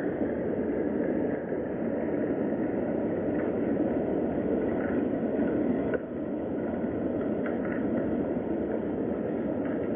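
Steady rain ambience, an even rumbling hiss with no rhythm or pitch, heaviest in the low-middle range, with a few faint ticks on top.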